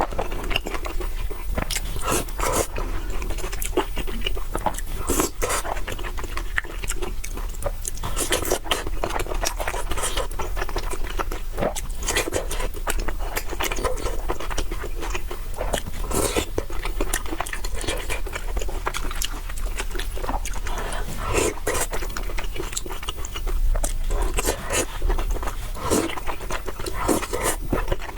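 Close-miked eating of spicy noodles: repeated wet chewing, slurping and lip-smacking clicks at an uneven pace.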